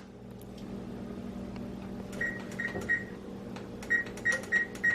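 Kitchen appliance control panel beeping with each button press: short, high electronic beeps, three and then a quicker run of several, over the steady hum of the running appliance.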